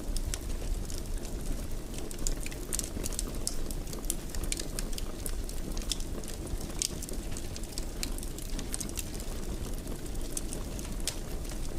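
Wood fire crackling in a fireplace: frequent sharp pops and snaps, irregular in timing, over a steady low rumble of burning.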